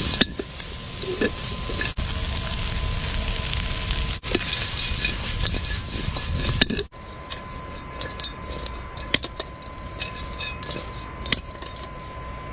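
Cured pork ribs sizzling as they are stir-fried in a pan over a wood fire. About seven seconds in it drops quieter, with scattered crackles and clicks.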